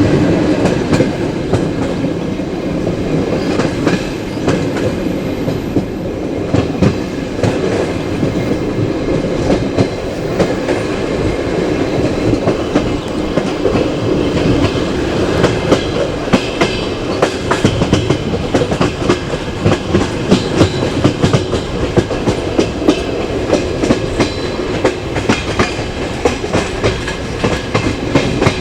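Passenger train carriage wheels rolling along the track, heard from the carriage window: a continuous rumble with clickety-clack knocks over the rail joints, which come thicker in the second half.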